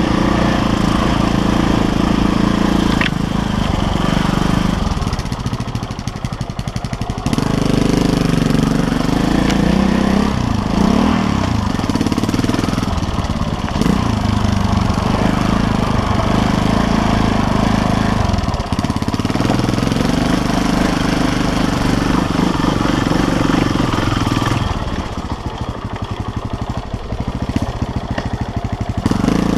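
KTM LC4 350 single-cylinder four-stroke enduro motorcycle engine being ridden off-road, the throttle opened and closed over and over so the revs rise and fall. The engine drops to low revs for a couple of seconds about five seconds in, and again near the end.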